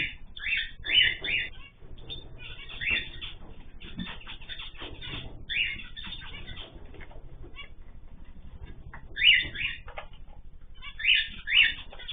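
Cage birds in a mixed aviary chirping: short, bright calls in clusters, loudest about a second in, around nine seconds in and twice near the end, over a faint low hum.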